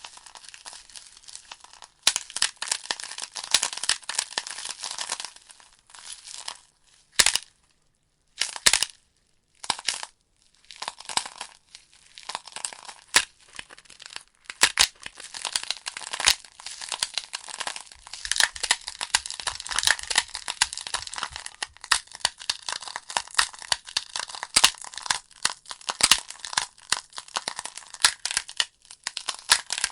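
Wood logs burning in a fireplace, crackling and popping with a dense run of sharp snaps. About a quarter of the way in the crackle thins out to a few separate loud pops with near silence between them, then it builds back to a steady thick crackle.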